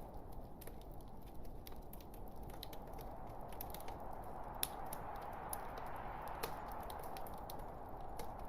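Wood logs burning in a fireplace: a steady low rush of flame with scattered pops and crackles, the sharpest about four and a half seconds in and again at about six and a half seconds.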